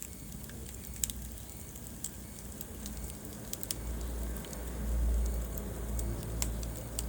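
Wood fire crackling in a fireplace: scattered sharp pops and snaps, a few a second, over a low rumble of burning that swells about midway through.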